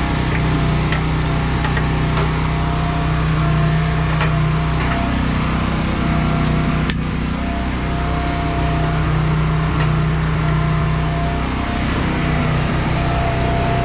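Truck engine running with a steady low drone and a faint whine above it, with a single sharp click about seven seconds in.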